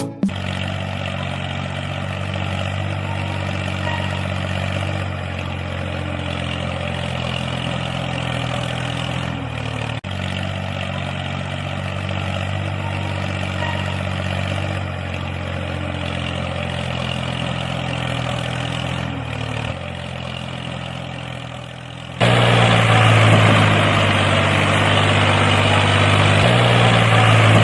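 Small electric motor of a homemade model tractor running steadily with a low hum. It gets noticeably louder about three-quarters of the way through.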